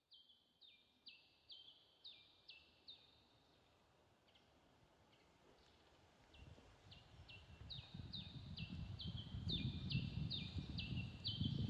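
Synthesizer chirps imitating birdsong: short flat tones that each step sharply down in pitch, repeated about two to three times a second, pausing briefly and then resuming. A low rumbling noise swells in from about halfway and grows louder toward the end.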